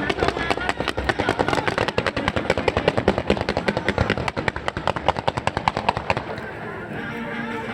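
Fireworks going off in a rapid barrage of sharp cracks and bangs, several a second, that thins out about six and a half seconds in.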